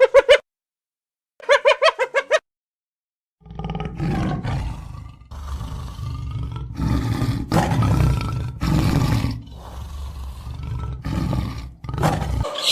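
Two short, quick-pulsed calls near the start, then a large animal growling and roaring in a series of low, rough phrases of about a second each that carry on to near the end.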